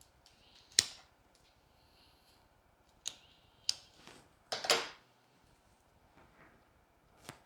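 A few sharp clicks and knocks, with a louder brief rustle about halfway through, from floral stems and branches being handled and pushed into an arrangement.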